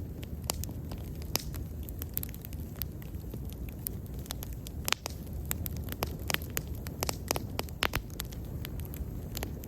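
Wood bonfire burning, with irregular sharp crackles and pops over a steady low rumble of the flames; a louder pop comes about five seconds in.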